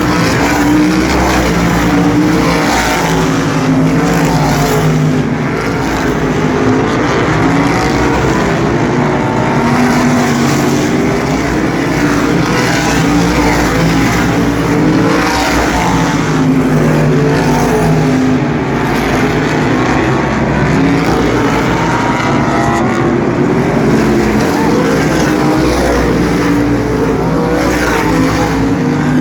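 A field of asphalt sprint cars racing around an oval, several V8 engines running at once at racing speed, their pitch rising and falling as the cars pass and go round the turns.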